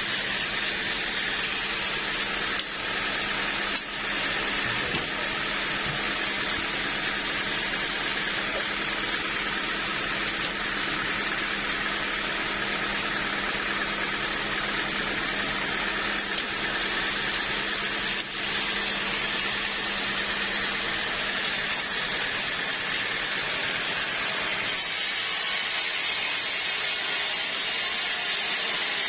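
Sawmill saw running steadily, a loud continuous hissing noise over a constant hum.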